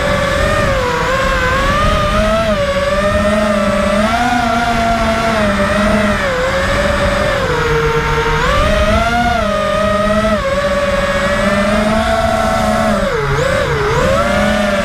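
Racing quadcopter's brushless motors (Emax Red Bottoms) and propellers whining, the pitch rising and falling continually with the throttle in flight, with a brief deep dip near the end.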